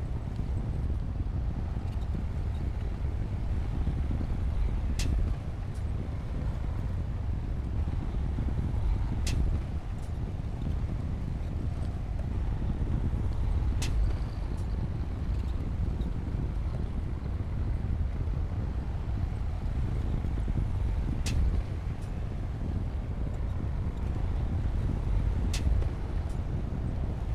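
D60P bulldozer's diesel engine running steadily in a low rumble, with a few sharp metallic clanks spread through it, several seconds apart.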